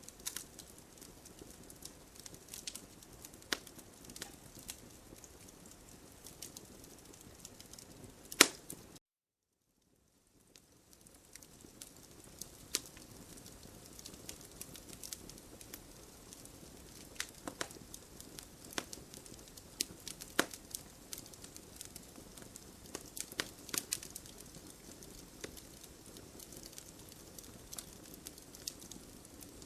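Wood campfire crackling, with a steady low hiss and frequent sharp pops and snaps. A loud pop comes about eight seconds in; just after it the sound cuts out completely for about a second, then fades back in and the crackling resumes.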